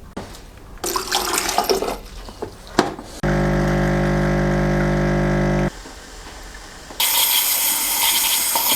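Water splashing and running from a tap, with a couple of clicks. In the middle a small electric motor runs with a loud steady hum for about two and a half seconds, then stops abruptly. Near the end a stronger stream of water starts running.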